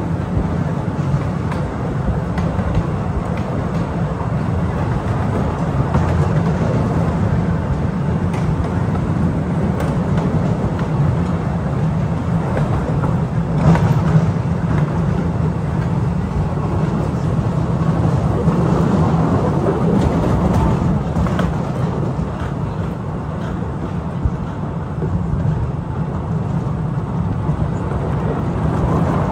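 Narrow-gauge electric cave train running: a steady rumble of wheels on the rails, with a few brief clicks and knocks from the track.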